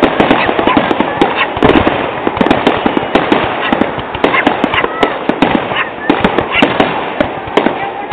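Aerial fireworks shells bursting in quick succession: a dense, unbroken barrage of sharp bangs and crackling, several a second.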